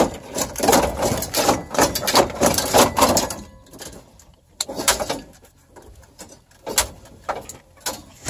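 A dense run of clattering, cracking and scraping for about three and a half seconds, then a few separate knocks and clicks: plastic and metal parts of a GMC dashboard being pried and yanked loose by hand.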